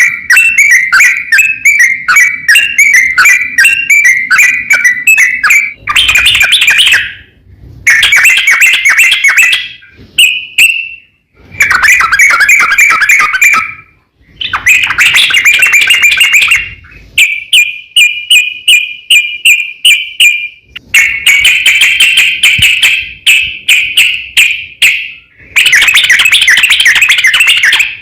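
Yellow-vented bulbul (cucak trucuk) singing loud, long runs of rapid bubbling notes, phrase after phrase with short pauses between; one phrase in the latter half is a string of clearer, evenly repeated notes.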